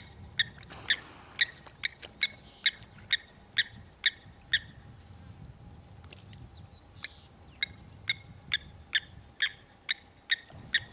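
A bird calling a long, even series of short, sharp notes, about two a second, with a break of about two seconds in the middle before the series starts again.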